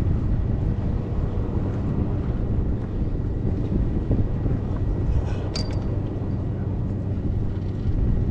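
Wind buffeting the microphone out on open water: a steady low rumble, with one short sharp click about five and a half seconds in.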